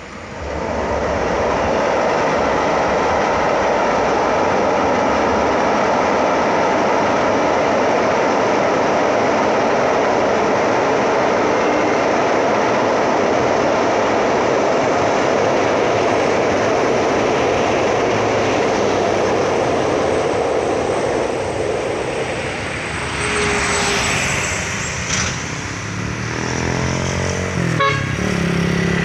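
A train passing close by: a loud, steady rumble of wheels on rails that comes in sharply about a second in and eases off after about twenty seconds. Near the end a heavy vehicle's engine comes in with a low hum.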